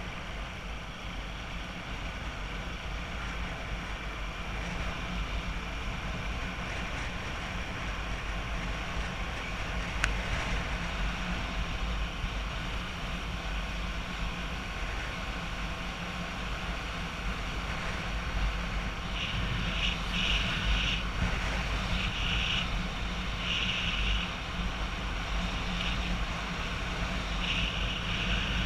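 A motorbike engine running steadily on the move, with a low rumble under a haze of road noise. From about two-thirds of the way through come a series of short, high-pitched bursts that start and stop several times.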